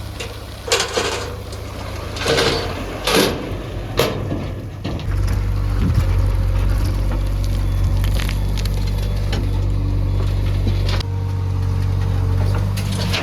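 JCB 3DX backhoe loader's diesel engine running, with several knocks and crunches of the loading work in the first four seconds. About five seconds in, the engine grows louder and holds steady under load.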